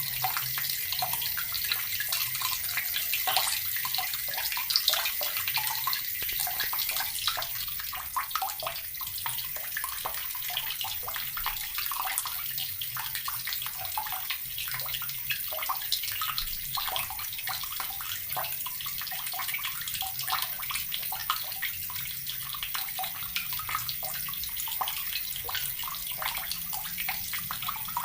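Water running steadily from a tap and splashing into water below, a continuous hiss with many small splashes.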